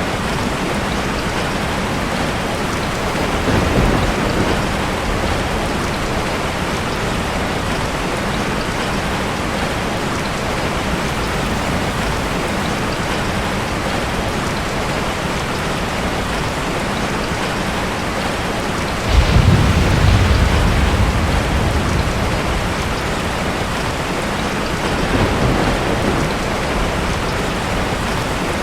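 Steady heavy rain, with a sudden loud rumble of thunder about two-thirds of the way through that fades over a few seconds. Fainter swells of distant thunder come early on and near the end.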